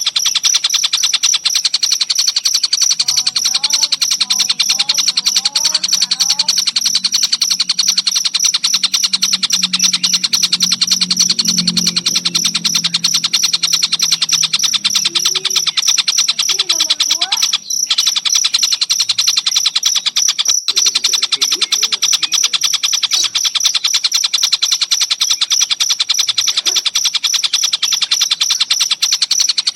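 Crickets trilling in a dense, very rapid, even high-pitched pulse that never lets up, with short scattered bird calls of the tengkek buto (kingfisher) mixed in at a lower pitch. The sound cuts out for an instant twice, in the second half.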